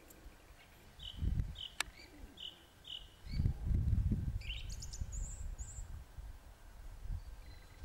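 A songbird calling outdoors: a run of about five short, evenly spaced notes, then a few higher chirps. Low rumbles underneath, loudest around the middle, with a single faint click.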